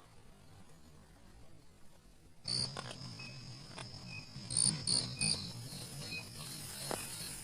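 Crickets and other insects chirping, with frogs calling low beneath them, starting suddenly about a third of the way in after a faint stretch; short chirps repeat in small groups over a steady high trill.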